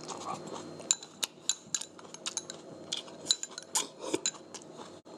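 Tableware clinking: a quick irregular string of light, sharp clinks, some with a short glassy ring, as utensils tap against dishes and glass.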